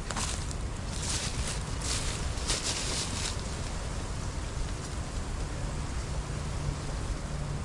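Strong wind buffeting the microphone in a steady low rumble, with a few short bursts of higher rustling between about one and three seconds in.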